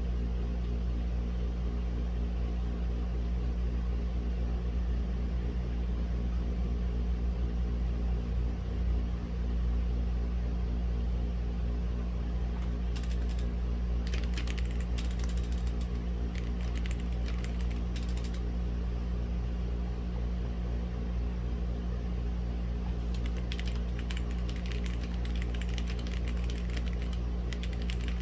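Typing on a Womier/Gamakay K87 mechanical keyboard with red linear switches, in two runs of keystrokes, one about halfway through and one near the end. Under it a steady low rumble and hum of background noise runs throughout and is the loudest sound.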